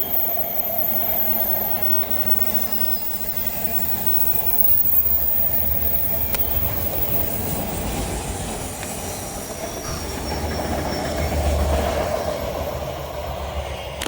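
Norfolk Southern mixed freight train's cars rolling past, steel wheels rumbling on the rails. A thin high wheel squeal is heard in the first few seconds.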